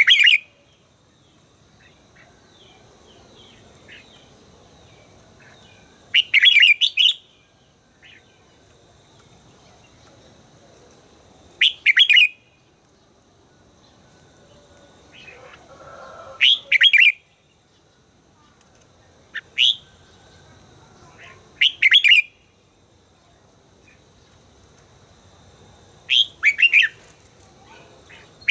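Red-whiskered bulbul singing short, bright phrases, about seven of them, each under a second, every few seconds.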